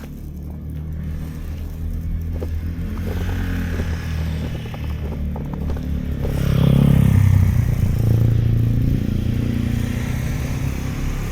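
A motor vehicle driving past on a snowy street, its engine hum building and loudest about seven seconds in before easing off.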